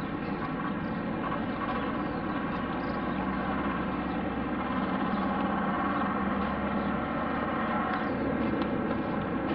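Aircraft engines running with a steady hum made of many tones over a rushing noise, slowly growing louder.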